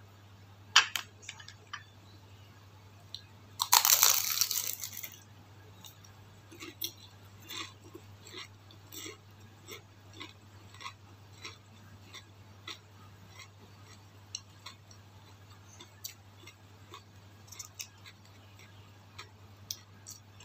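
A bite into a crispy fried spring roll (lumpiang pansit) gives a loud crunch about four seconds in. Steady chewing follows, with soft, evenly paced crunches about one and a half a second.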